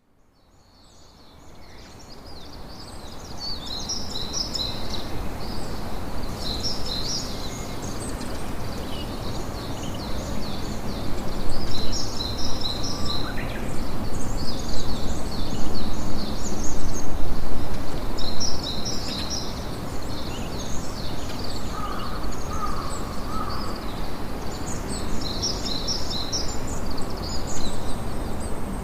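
Campfire crackling and hissing under a chorus of small birds chirping repeatedly, fading in from silence over the first few seconds.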